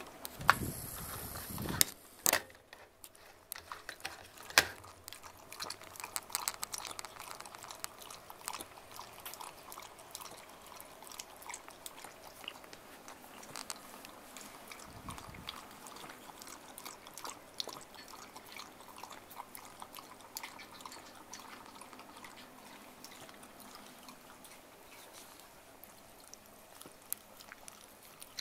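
A Shiba Inu lapping iced water from a bowl: a long run of quick, small wet laps and drips. About half a second in there is a louder rush of water noise lasting over a second.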